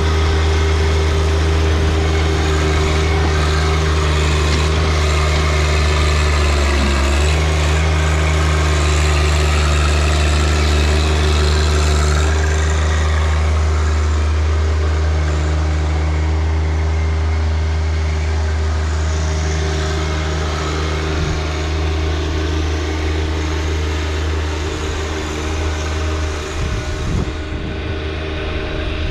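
John Deere 1025R compact tractor's three-cylinder diesel engine running steadily, its pitch dipping briefly about seven seconds in.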